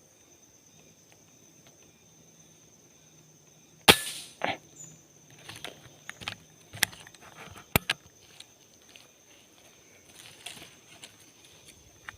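A single air rifle shot about four seconds in, one sharp crack, followed by a scatter of smaller clicks and knocks. A steady high-pitched insect drone runs underneath.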